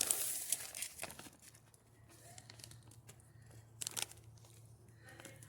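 Hands mixing and kneading a homemade carp bait dough of breadcrumbs, strawberry jello and sweet corn: crinkling, squishing rustle, busiest in the first second, then scattered sharp clicks with one louder crackle a little before the end.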